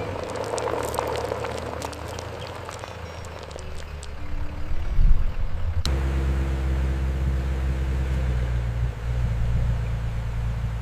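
Pickup truck engine running with a steady low hum. A sharp click comes a little past the middle, after which the hum is louder.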